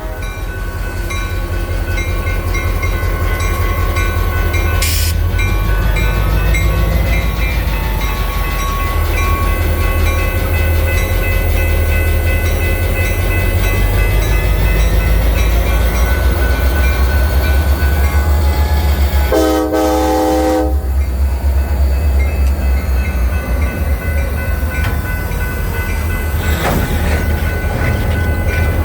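EMD GP40-2 diesel locomotives running with a heavy, steady low rumble. A locomotive horn sounds once, for about a second and a half, about two-thirds of the way in, and there is a single sharp clank about five seconds in.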